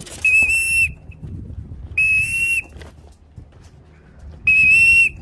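A whistle blown in three short, steady, high blasts about two seconds apart, calling a returning racing pigeon down into the loft.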